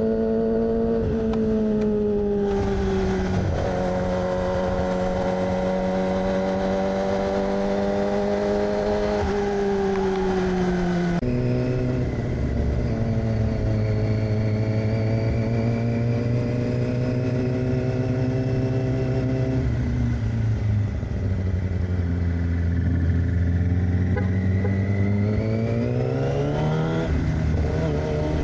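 2006 Yamaha R6's inline-four with an aftermarket AR exhaust, under way at steady revs. Its pitch drops suddenly at an upshift about eleven seconds in, sags as the throttle eases later on, then climbs again as it revs up near the end.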